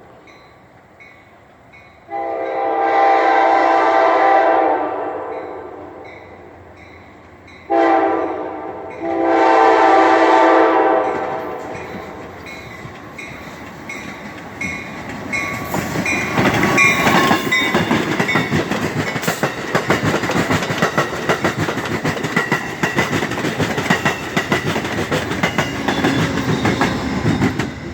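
Amtrak locomotive horn sounding at the grade crossing: a long blast, then a short blast and a long one. Then the passenger train passes close by, its wheels clattering steadily over the rails.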